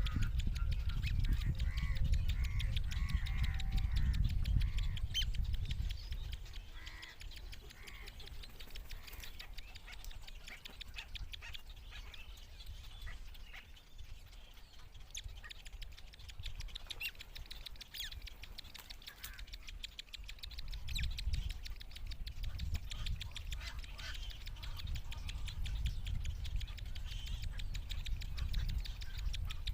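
Chicks of a fish-eating bird giving repeated short, nasal calls, over a low rumble on the microphone in the first few seconds and again near the end.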